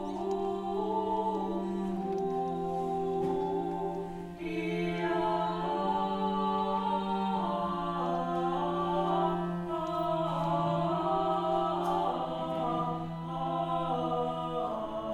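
Unaccompanied vocal ensemble singing in a chant-like style: a low held note under several voices moving in steps, the sound growing fuller about four seconds in.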